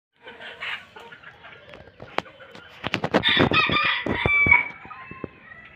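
Polish cap chickens calling: softer clucks early on, then a rooster crowing once, loud, from about three seconds in for nearly two seconds. A few sharp clicks sound around the crow.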